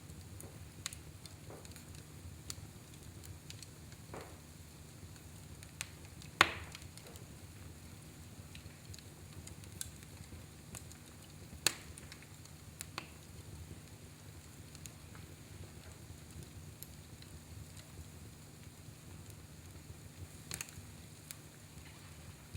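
Fire burning in a fireplace, crackling softly with scattered sharp pops over a low steady hum; the loudest pop comes about six seconds in and another near twelve seconds.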